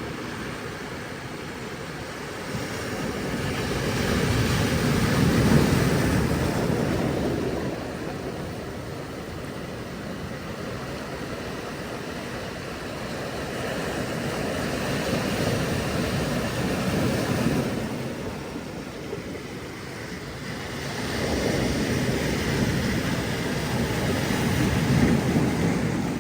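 Ocean surf: waves washing in and breaking, building to three loud rushes about ten seconds apart.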